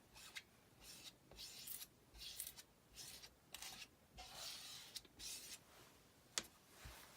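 Faint repeated scraping strokes of an applicator spreading chalk paste over a Chalk Couture stencil transfer, with one sharp click near the end.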